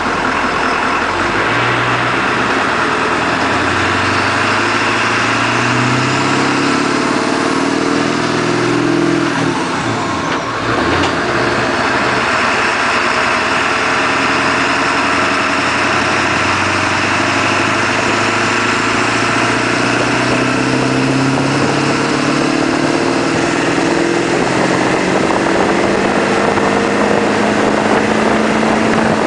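1999 Ford Powerstroke's 7.3 L turbo-diesel V8 exhaust as the truck accelerates while towing a heavy load. The engine note rises, drops at a gear change about ten seconds in, then climbs steadily again.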